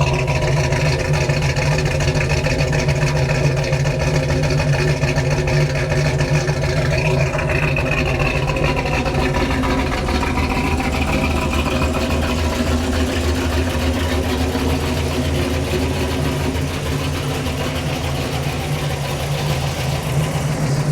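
Pontiac 455 V8 with headers idling steadily and smoothly, a few minutes after a cold start.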